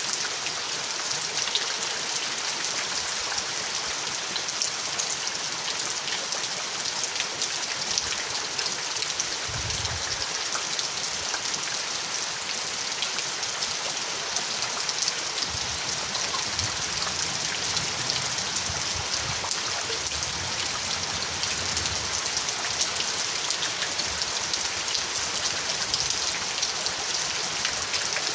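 Steady rain falling: a dense, even hiss of water with many small drop ticks, holding at one level throughout.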